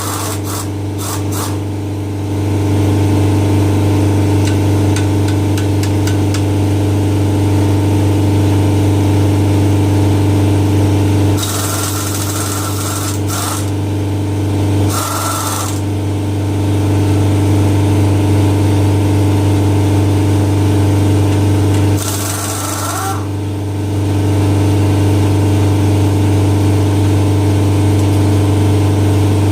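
A steady machine drone runs throughout. Three short, hissing bursts of a power tool come about twelve, fifteen and twenty-two seconds in.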